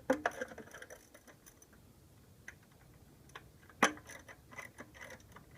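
Scattered metallic clicks and clinks of hand tools working bolts loose under the hood, with one sharp clink about four seconds in.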